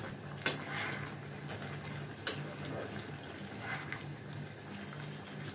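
Chicken frying uncovered in a pan in its own juices: a faint sizzle with a few sharp ticks, about half a second in and again a couple of seconds later, over a steady low hum.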